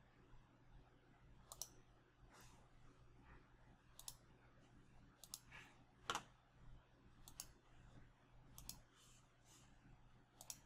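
Faint computer mouse clicks, about seven spread through the stretch, several as quick double clicks, over a low steady hum.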